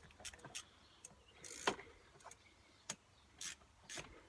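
Faint, irregular metal clicks and knocks, with a couple of short scrapes, from a hand tool being fitted to and turned on the bolts of a Vauxhall Astra 1.6 cylinder head.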